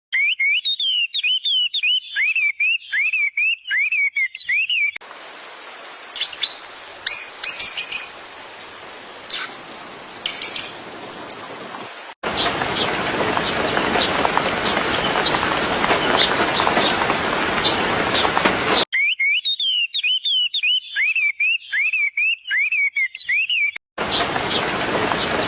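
A bird calling a rapid series of repeated high chirped notes, about two or three a second. The series is heard twice, with cuts to softer scattered chirps and to a loud steady hiss like rain.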